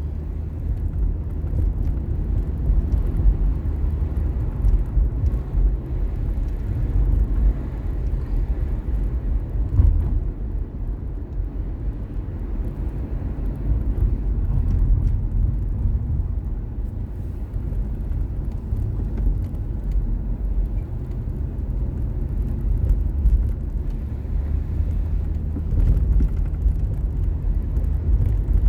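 Steady low rumble of a car's engine and tyres on the road, heard from inside the car while it drives.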